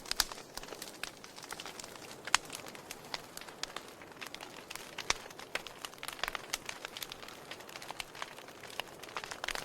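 Fireplace fire crackling, with irregular pops and snaps over a soft hiss; a few pops stand out louder, one just after the start and one a little over two seconds in.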